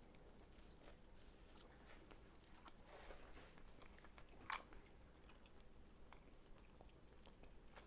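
A person quietly chewing a mouthful of chicken in a creamy cheese sauce, with faint soft mouth clicks and one brief sharper click about four and a half seconds in.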